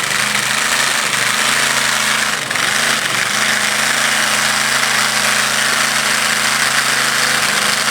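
Supercharged 472 cubic inch Keith Black alcohol-burning big-block of a 4x4 drag truck, running loud and steady at a constant speed with a choppy, hammering note and a brief dip about two and a half seconds in.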